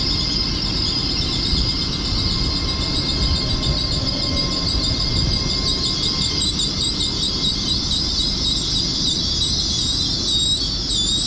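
LNER Azuma train (Class 801) squealing as it runs slowly into the platform: one continuous high-pitched squeal that wavers and drifts a little lower in pitch in its second half, over a low rumble.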